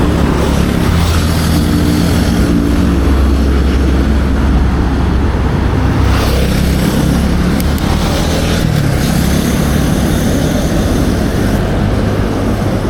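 Close road traffic, motorcycles and cars passing one after another, their engines rising and falling over a steady low rumble.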